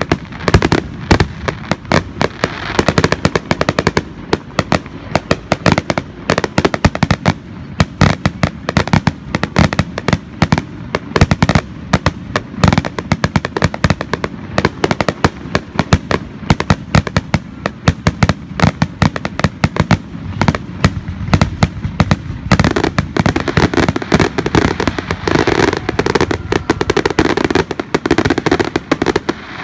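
A fireworks finale: aerial shells bursting in a rapid barrage, many overlapping bangs every second with no pause.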